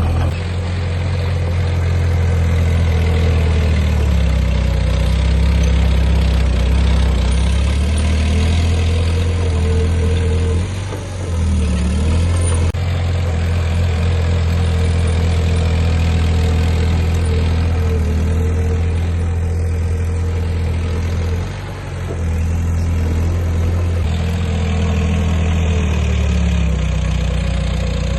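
Heavy diesel engine of earthmoving machinery running steadily under load, with a strong low drone that eases briefly about eleven and again about twenty-one seconds in.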